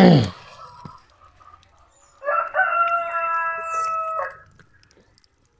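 A rooster crows once, starting about two seconds in: a single steady-pitched call lasting about two seconds. Right at the start there is a brief, loud sound that drops in pitch.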